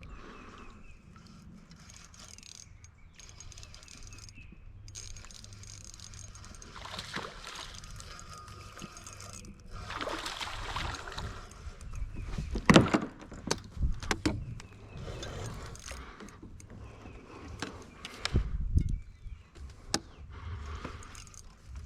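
Gear moving about in a canoe: knocks against the hull and small rattling clatters, with some water noise. The loudest knocks come about halfway through, and a dull thump follows a few seconds later.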